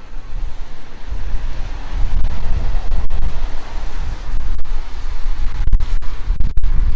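Wind buffeting the microphone in loud, gusty low rumbles that build about a second in, over a steady rushing noise.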